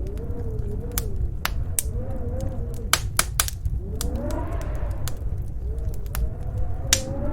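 Crackling wood fire, with sharp pops at irregular intervals, over a low rumble and the howl of storm wind wavering up and down in pitch.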